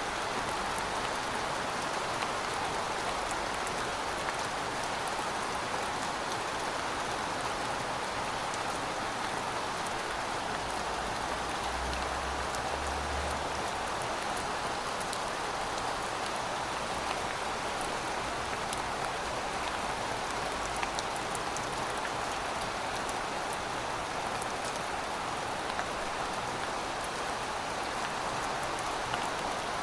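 Heavy rain falling steadily: an even, dense hiss with fine scattered drop ticks. A brief faint low rumble comes about twelve seconds in.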